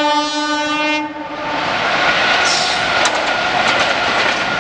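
Electric locomotive's horn sounding a steady chord that cuts off about a second in. It gives way to the rumble of a passing container freight train, with wheels clicking over the rail joints.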